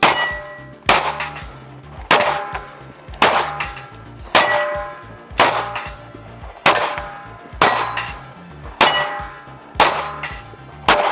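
Pistol shots about one a second, each one answered by the clang and ring of a steel target plate being hit, eleven in all.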